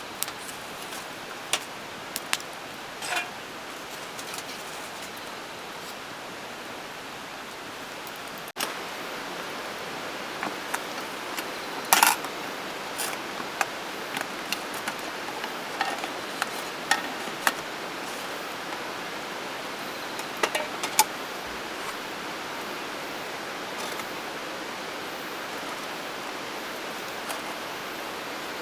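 Scattered light clinks and clicks of camp cookware and utensils being handled, the loudest a sharp clink a little before the middle, over a steady background hiss of rain that gets slightly louder about a third of the way in.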